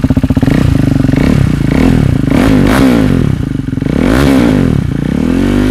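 KTM Duke 390's single-cylinder engine breathing through a replica SC Project exhaust, revved in several quick blips, each rising and falling back toward idle. Very loud.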